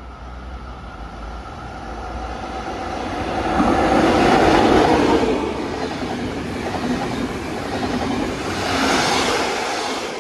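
A train running past on the line, a steady rumble with rolling wheel noise on the rails. It grows loudest about four to five seconds in, swells again near the end, then begins to fade.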